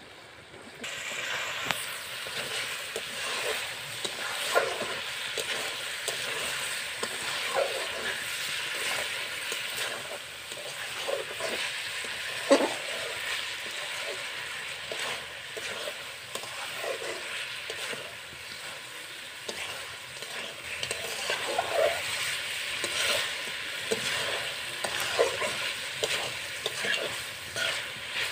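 Chicken pieces sizzling steadily as they fry in a wok. A spatula stirs them, scraping and knocking against the pan every few seconds.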